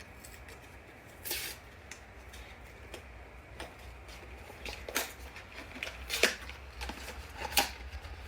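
A cardboard blind box and its packaging being handled and opened by hand: scattered clicks, snaps and rustles, with the sharpest snaps in the second half.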